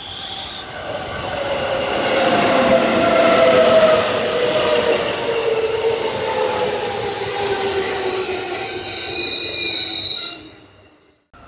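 An electric train moving through a station: its traction motors give a whine of several tones that falls slowly in pitch as the train slows, over the rumble of the wheels on the rails. The sound builds over the first few seconds and cuts off suddenly near the end.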